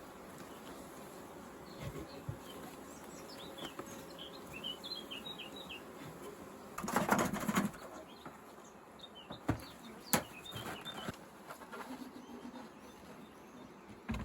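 Honeybees buzzing around an open hive, with small birds chirping now and then. A brief loud rustle of handling comes about seven seconds in, and a couple of sharp clicks follow shortly after.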